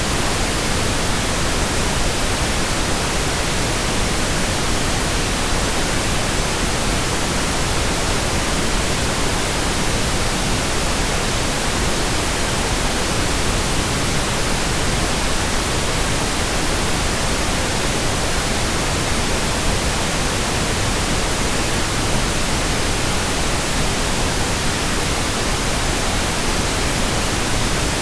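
Steady electronic white noise: an even, unbroken hiss across all pitches, with no change in level.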